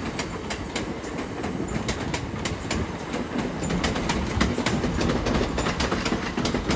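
Class 375 Electrostar electric multiple unit running into the station, its wheels clicking rapidly and irregularly over rail joints and points above a low rumble that grows a little louder.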